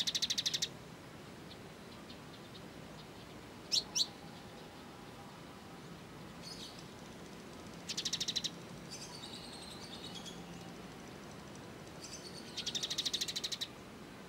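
Eurasian tree sparrows' fighting calls: short, rapid, buzzy trills three times, about four to five seconds apart, with a pair of sharp chip notes and softer twittering between them.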